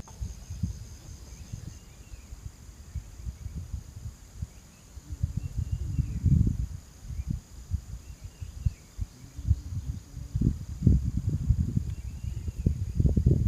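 Crickets trilling steadily, a high pulsing trill for the first couple of seconds, with faint short calls every couple of seconds. Under them an irregular low rumbling comes and goes, growing louder about halfway through.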